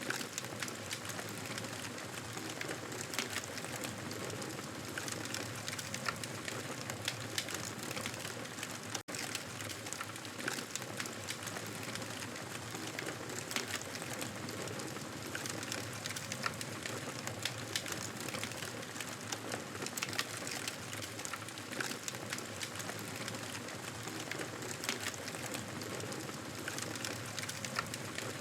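Wood fire crackling, with frequent small sharp pops over a steady hiss.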